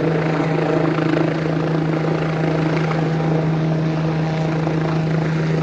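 Police helicopter hovering overhead, its rotor and engine drone steady and loud.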